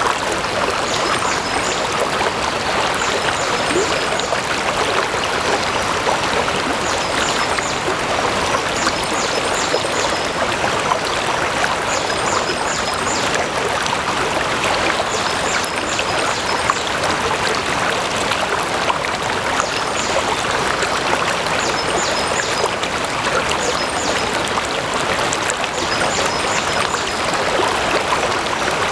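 Flowing stream water running steadily, a continuous rushing and trickling. Faint short high chirps come in small groups every two to three seconds.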